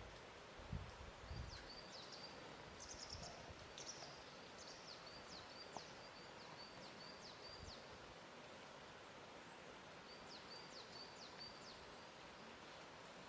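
Faint lakeshore ambience: small birds chirping, with quick high chirps and short downward-sweeping notes in clusters that pause for a couple of seconds past the middle. Water laps softly under a steady low hiss, with a few low thuds about a second in.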